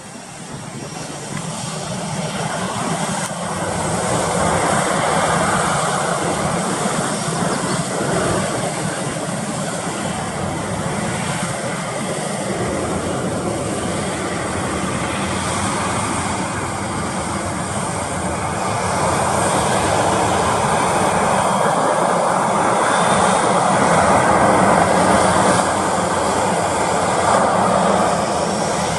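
Jet airliner's engines at take-off power: a loud, steady rush that builds over the first few seconds and grows a little louder again in the second half.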